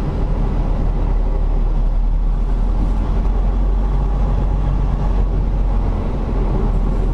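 Semi truck's diesel engine running steadily, a continuous low drone.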